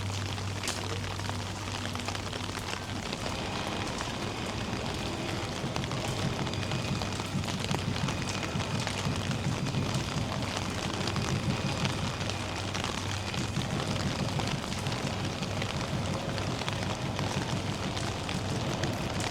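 Rain falling steadily, a dense crackle of drops over a low hum.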